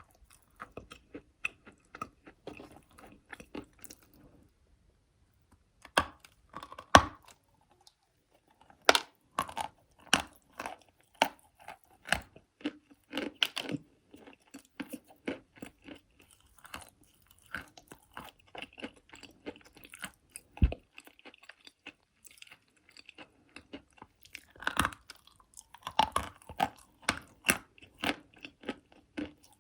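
A person biting and chewing dry, crunchy chalk-clay: a dense run of crisp crunches and crackles. There is a short pause about four seconds in, and the loudest bites come near seven and nine seconds and again around twenty-five.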